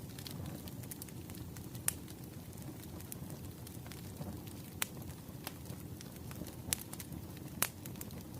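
Bonfire burning with a steady low rumble and irregular sharp crackles and pops of burning wood.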